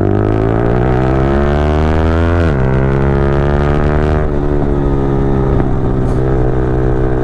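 Motorcycle engine accelerating under way: its pitch climbs, drops sharply at a gear change about two and a half seconds in, then climbs again more gently.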